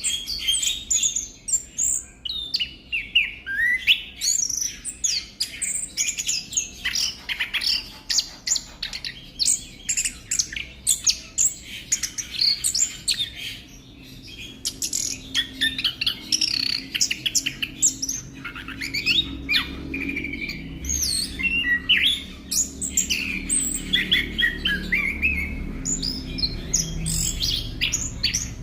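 Orange-headed thrush singing a long, rapid, varied song of chirps and sliding whistles with only brief pauses; a faint low hum sits underneath in the second half.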